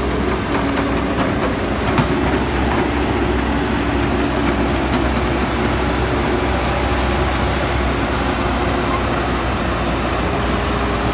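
Cat 312BL excavator's diesel engine running steadily while it works, with a hum of hydraulics whose tone wavers slightly, and a few faint clicks in the first couple of seconds.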